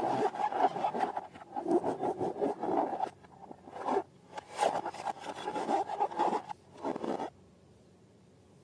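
Rubbery rubbing and scraping as balloons and slime are handled, irregular and crackly, stopping abruptly about seven seconds in and leaving near silence.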